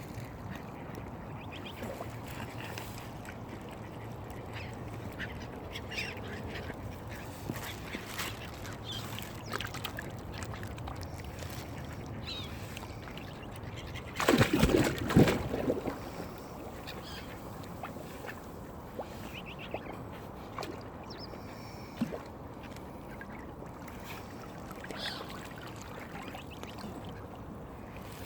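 Mallard ducks quacking on and off over steady background noise, with a loud burst of sound lasting a second or so about halfway through.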